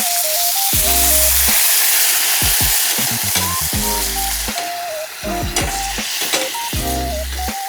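Chicken wings sizzling in a forged iron frying pan over a wood fire, a dense spitting hiss that is strongest for the first few seconds and dies down about two-thirds of the way through, with a few sharp ticks after that. Background music plays underneath.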